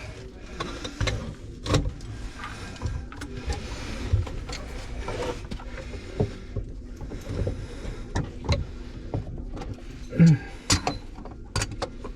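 Irregular clicks, knocks and short scraping sounds of hand work on a sink drain, with the loudest knock about ten seconds in.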